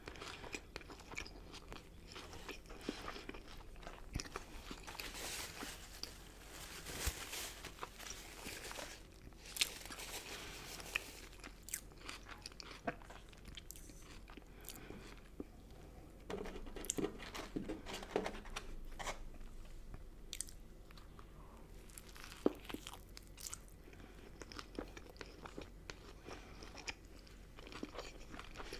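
A person chewing and crunching McDonald's fast food, with frequent sharp bites and crackly mouth sounds, busier in a couple of stretches.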